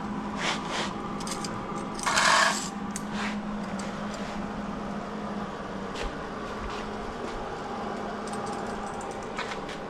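Workshop handling noise: light clicks and scrapes of metal being handled over a steady low hum, with one louder half-second scrape about two seconds in.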